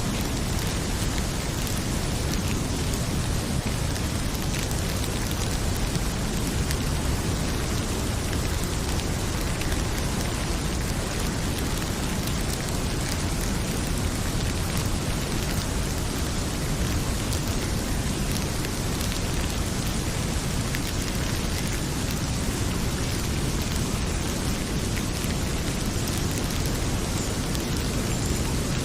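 Heavy rain pouring steadily: a dense, even hiss with a deep rumble underneath, and faint crackles from a wood fire here and there.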